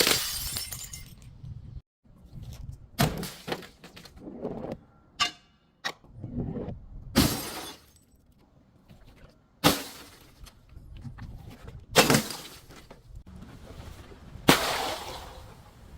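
Glass bottles being crushed and broken: a series of sharp cracks and shattering, about eight separate breaks every two or three seconds, one followed by a brief ringing of glass.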